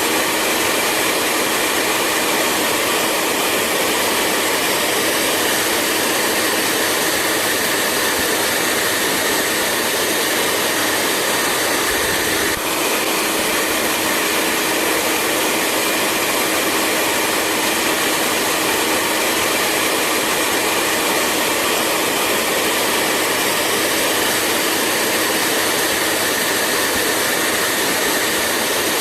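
Hair dryer running steadily: an even rush of blown air over a constant motor hum, with a brief hitch about twelve seconds in.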